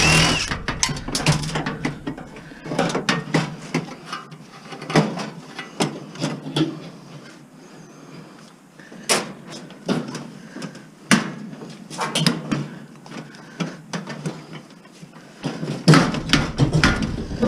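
Irregular knocks, clicks and clatters of hand tools and metal parts as an appliance is dismantled for scrap to get at its motors. The loudest noisy burst comes right at the start.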